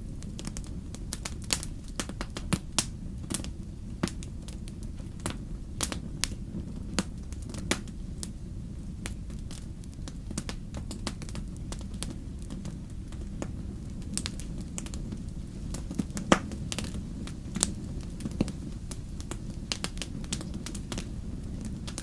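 Wood fire burning in a fireplace: a steady low rumble of flames with frequent irregular crackles and pops, one sharp pop louder than the rest about sixteen seconds in.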